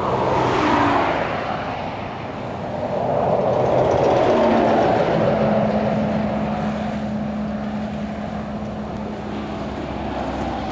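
Road vehicle noise: a loud rushing sound that swells twice, the second swell joined by a steady engine hum that holds to the end.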